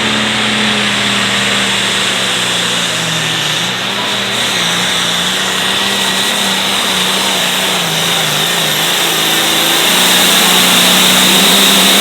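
Hot farm class pulling tractor's diesel engine running hard under load through a pull, its pitch wavering and dipping a couple of times, then growing louder near the end.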